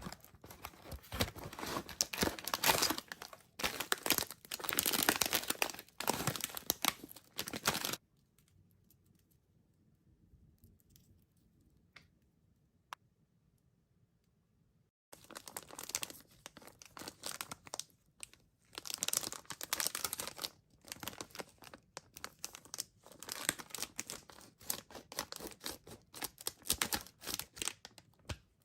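Plastic Warheads candy wrappers being torn open and crinkled by hand. There is a break of several seconds with only a couple of faint clicks in the middle, then the crinkling resumes.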